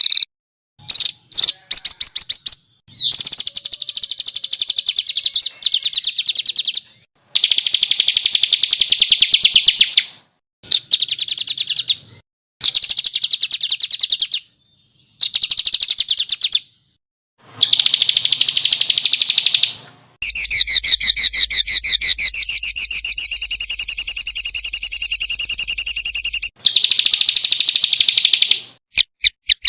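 Small songbird singing loud rapid-fire trills, the sharp 'tembakan' song: fast strings of high repeated notes in phrases of one to several seconds, each cut off abruptly by a short silence. The longest phrase runs about six seconds, beginning about twenty seconds in.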